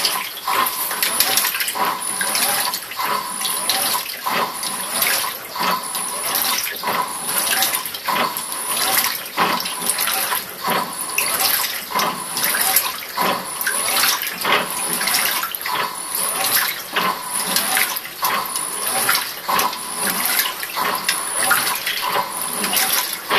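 Simpson Ezi Sensor washing machine washing a load of shirts: water sloshing and splashing in the tub, coming in uneven surges about once a second.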